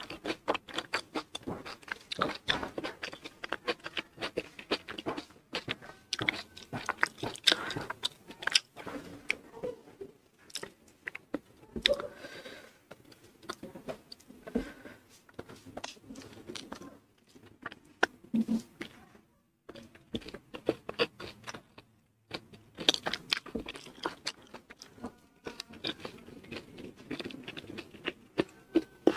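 Close-miked chewing and mouth sounds of someone eating rice and side dishes by hand, with crunchy bites, in an irregular run of wet clicks that pauses briefly twice.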